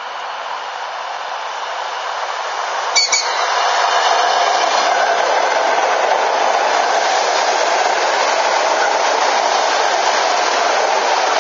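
Suburban electric multiple unit approaching and passing close by: its running noise grows louder over the first few seconds, then holds as a steady rush of wheels on rail while the cars go by. A brief, sharp high-pitched sound cuts in about three seconds in.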